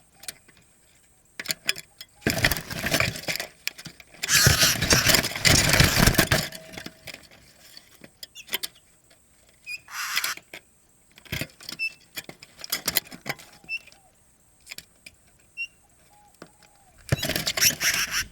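Bursts of rustling and clattering with many sharp clicks, the loudest about four seconds in. Faint, short, low coos of a spotted dove come now and then underneath.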